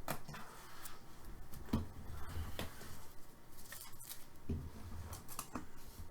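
Hockey trading cards being handled and slid against one another, with scattered light clicks and soft rustles.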